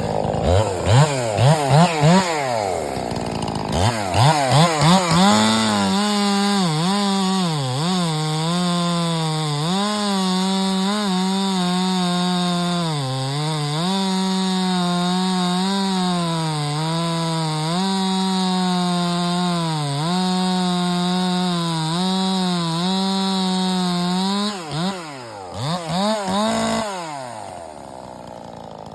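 Ported Stihl MS291 two-stroke chainsaw with a 20-inch bar and full-chisel chain, blipped a few times and then held at full throttle while cutting wood on its first tank of fuel, the engine pitch sagging and recovering as the chain loads up in the cut. Near the end it is revved a few more times and drops back to idle.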